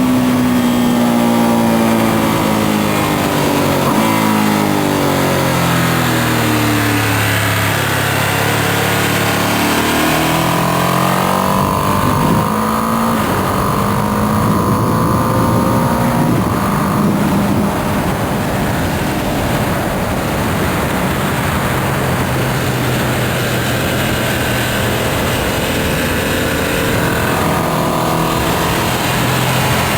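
2025 Ducati Panigale V2S's twin-cylinder engine on the stock exhaust, heard from onboard with wind rushing past: the engine note falls for the first several seconds as the bike slows, climbs again about ten seconds in under acceleration, then holds fairly steady.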